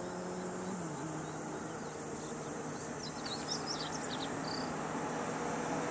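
A steady engine hum that drops in pitch once, about a second in, then runs on at the lower pitch. Under it is a constant high drone of insects, with a brief cluster of short chirps about three seconds in.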